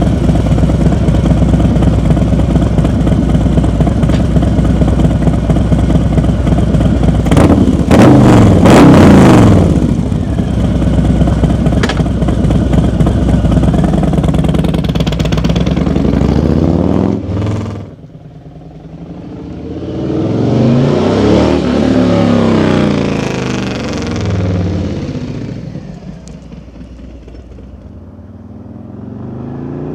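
Harley-Davidson Street Glide's Milwaukee-Eight 107 V-twin through an SP Concepts full-length Turnpike exhaust: running steadily, revved hard about eight seconds in, then surging through several rising and falling stretches of acceleration.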